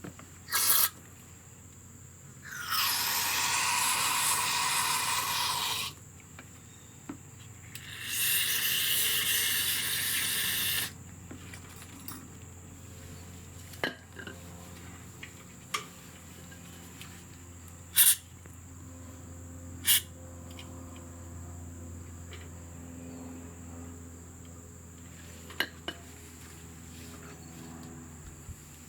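Two long bursts of non-chlorinated aerosol brake cleaner, each about three seconds, sprayed to clear old grease off a brake caliper. After them come scattered light clicks and taps over a low steady hum.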